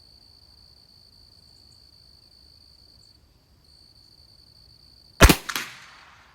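A single .22 LR rifle shot from a Christensen Arms Ranger bolt-action rifle about five seconds in: a sharp crack followed by a short echo that dies away within about a second. Before it, insects trill steadily at a high pitch, with a brief gap about three seconds in.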